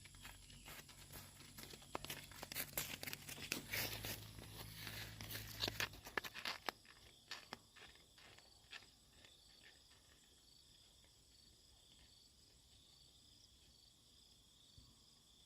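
Dry leaves and twigs crackling and rustling for about the first seven seconds. Then it fades to insects chirping in an even, pulsing rhythm.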